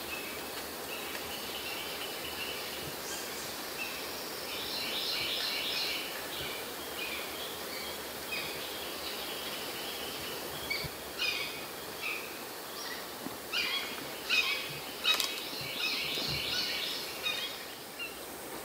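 Wild birds calling: rapid trilled notes repeating throughout, with a run of sharp, louder calls in the second half, over a steady hiss.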